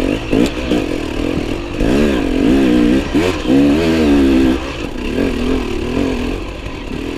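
Enduro motorcycle engine revving up and down repeatedly while being ridden, loudest between about two and four and a half seconds in.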